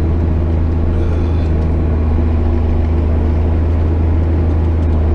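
JCB Fastrac 8250 tractor's engine running steadily under load while pulling a plough, with a deep, even hum.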